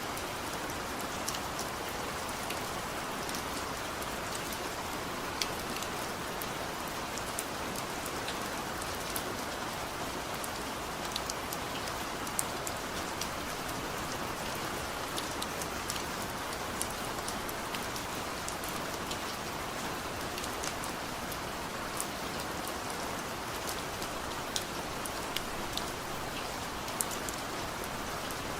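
Steady heavy rain, a dense even hiss with many sharp drop ticks on a hard surface; no thunder.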